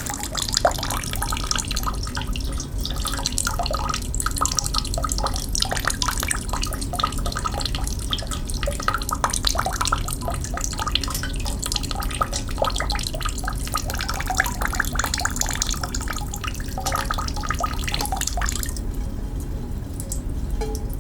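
A stream of running water splashing steadily into a basin below, a continuous patter of small drips and splashes; the higher splashing thins out a little near the end.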